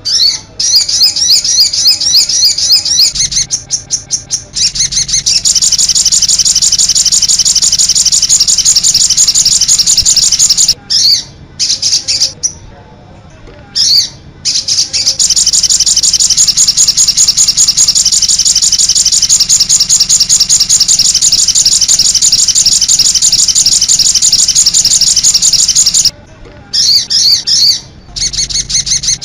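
Songbird singing a long, fast, high-pitched trill of rapidly repeated notes, in long bouts broken by a few short pauses. It is a masteran song recording, the kind played to caged songbirds so they learn it.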